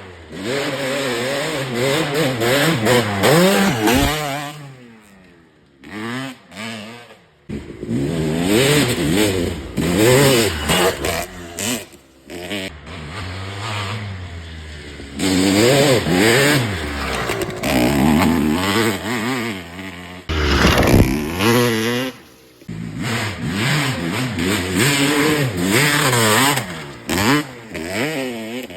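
Kawasaki KX250 motocross bike engine revving hard, its pitch rising and falling over and over, with quieter off-throttle spells and a short loud rush of noise about two-thirds of the way through.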